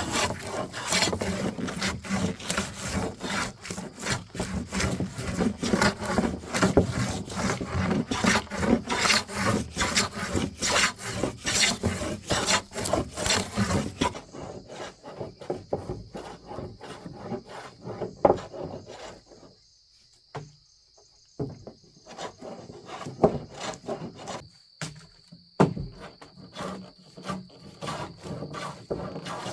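Hand tool working wood: rapid repeated rasping strokes, like sawing or rasping. About halfway through it changes abruptly to sparser knocks and scrapes, with a steady high-pitched tone under them.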